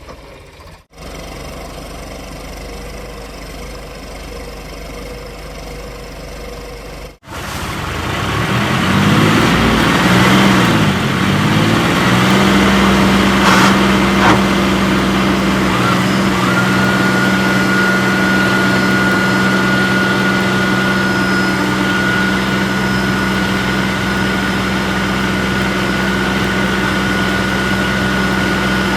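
Heavy diesel engine running. After a brief dropout about seven seconds in, it revs up and holds steady at higher revs, and a steady high whine joins partway through.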